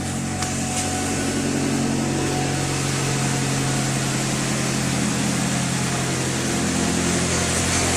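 Freshly rebuilt Nissan car engine running steadily at an even, unchanging speed after its first start.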